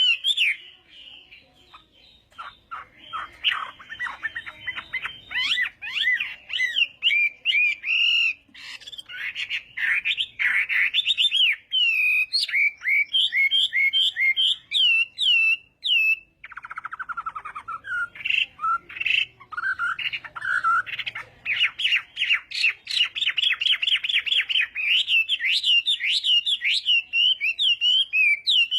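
Chinese hwamei (laughingthrush) singing a loud, varied song of rapid whistled phrases, slurs and trills, with a brief break a little past halfway followed by a fast run of repeated notes.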